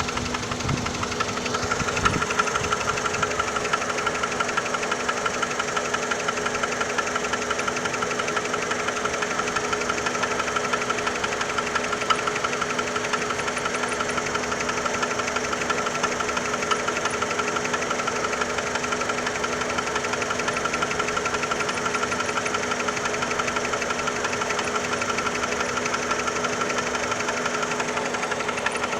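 2002 Chrysler PT Cruiser's four-cylinder engine running at a steady speed with a fast, even knocking, a knock whose cause the owner does not know.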